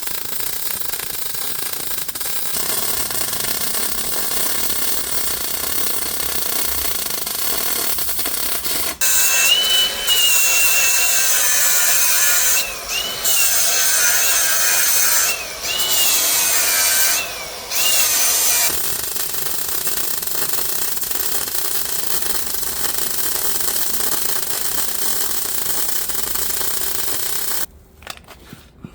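Power tool running steadily. Partway through it gets louder, with a whine that dips and rises in pitch and breaks off briefly three times. It stops abruptly near the end.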